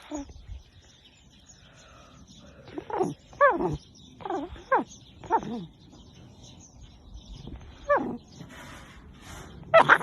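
An animal's short, high cries, about six of them, each falling in pitch.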